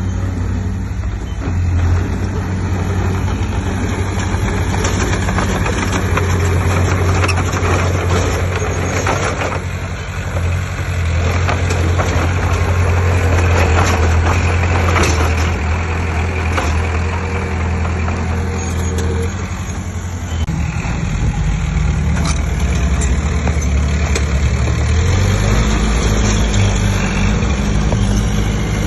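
Heavy diesel engine of earthmoving machinery running steadily under varying load, its pitch changing about two-thirds of the way through, with scattered knocks and scrapes in the middle.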